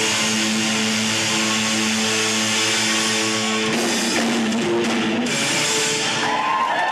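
Live rock band playing electric guitar and drums, with a held chord that changes to shorter notes a little under four seconds in.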